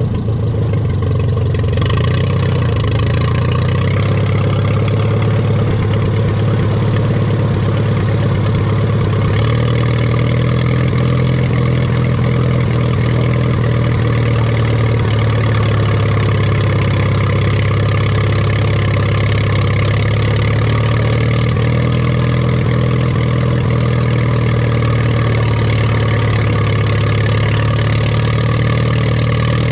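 Antique farm tractor engine working steadily under load while pulling a tractor-pull sled; the engine note steps up in pitch about ten seconds in and holds there.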